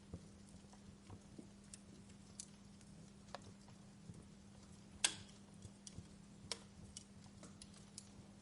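Wood fire crackling: scattered, irregular pops and ticks, the loudest pop about five seconds in.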